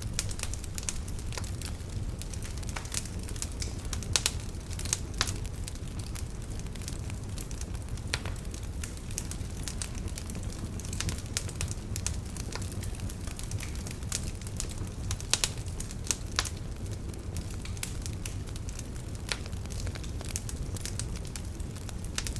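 Wood fire burning in a fireplace: a steady low rumble of the flames with irregular sharp crackles and pops from the logs, a few louder pops scattered through.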